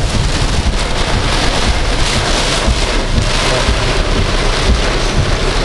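Heavy rain pelting a moving car's windscreen and roof, heard from inside the cabin over a steady low road rumble.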